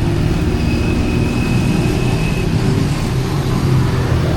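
Steady low rumble of street traffic engines, with a faint high whine for about two seconds in the middle.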